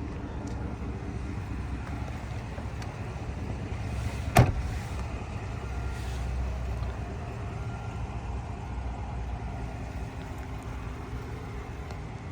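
A motor vehicle's engine running steadily, a low rumble, with one sharp knock about four seconds in that is the loudest sound.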